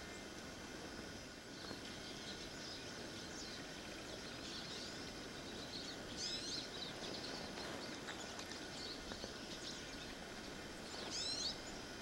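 Outdoor bird calls: scattered short, high chirps over a steady background hiss, with two louder clusters of quick falling chirps about six and eleven seconds in.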